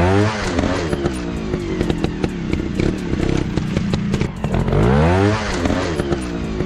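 Dirt bike engine revving up and back down twice, once at the start and again about five seconds in, running steadily in between, with scattered sharp clicks.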